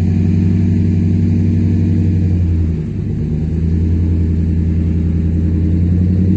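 Pickup truck engine running steadily under load while towing a stuck tractor out on a strap. The pull eases briefly about three seconds in, then the engine comes back up.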